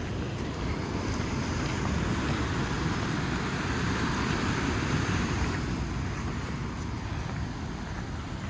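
Ocean surf breaking against the shore, mixed with wind buffeting the microphone; the rushing swells up in the middle and eases off toward the end.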